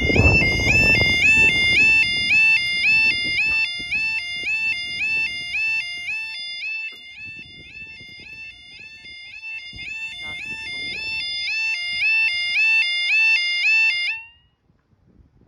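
Level crossing alarm sounding its two-tone warbling wail, alternating between a high and a low pitch about twice a second. A rumble of noise sits under it for the first few seconds, and the alarm cuts off abruptly about a second before the end.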